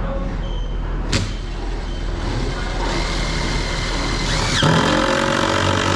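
Cordless impact drill running, driving a fastener to mount a sprinkler pipe hanger. It starts with a click about a second in, runs for about five seconds with a shifting motor pitch, and stops abruptly near the end.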